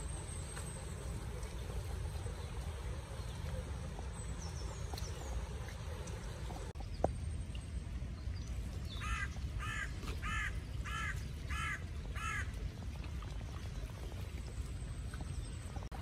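A bird calling six times in a quick even series, each call harsh and arched, over a steady low rumble.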